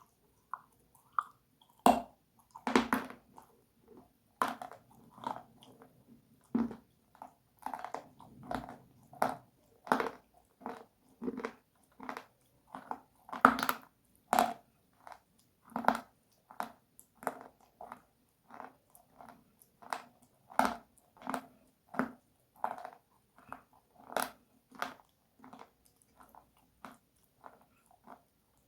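A mouth chewing something hard and crunchy, with repeated crackling crunches at about one and a half a second, a few of them louder.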